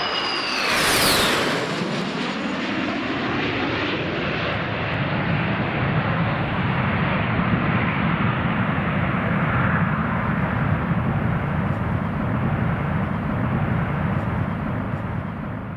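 Boeing C-17A Globemaster III's four Pratt & Whitney F117 turbofans passing low overhead on landing approach. A high engine whine drops sharply in pitch in the first second as the jet goes by, then a loud, deep rumbling roar holds and fades away near the end.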